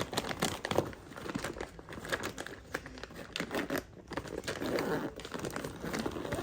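Bag rustling and crinkling in irregular bursts as clothes are stuffed into it and it is handled.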